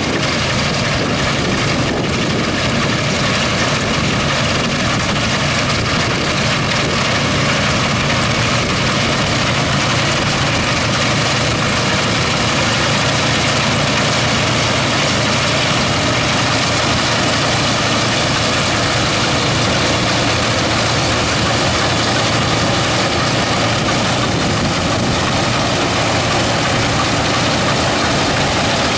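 A heavy engine running loudly and steadily at an even speed.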